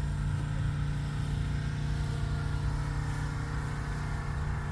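Motor vehicle engine idling steadily, a low even drone that holds without revving.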